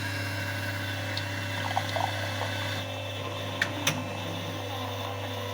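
Rijo 42 Auto Select bean-to-cup coffee machine running as it starts a latte macchiato: a steady mechanical hum, typical of its pump moving liquid, with two short clicks a little past the middle.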